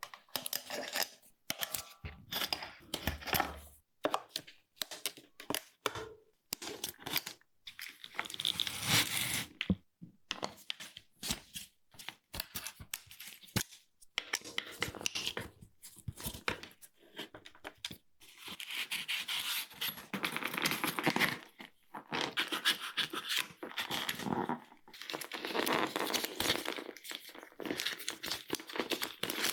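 Irregular rustling, crinkling and scraping: hands handling something, in short bursts with brief pauses.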